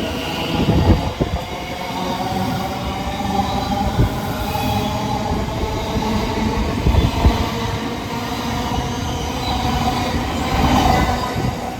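Train running close by: a steady rumble of wheels on rail with a faint whine, broken by several brief knocks.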